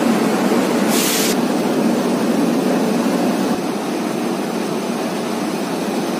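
Passenger train running, a steady rumble and rush of noise from the moving coach, with a brief hiss about a second in.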